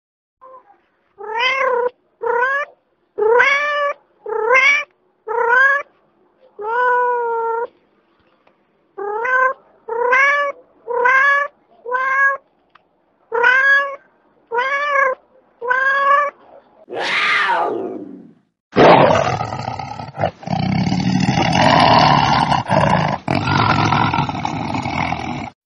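A domestic cat meowing over and over, about a dozen short meows that rise and fall in pitch. Then a tiger roaring, one long noisy roar with brief breaks, for about the last seven seconds.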